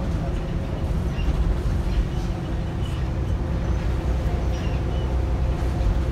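Volvo B7RLE single-deck bus heard from inside the saloon: a steady low rumble of the diesel engine and running gear, with a faint steady whine and short, faint high-pitched chirps now and then.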